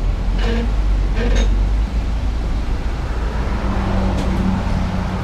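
Jeep Wrangler JK engine idling steadily with the drivetrain engaged. A second steady hum joins about three and a half seconds in.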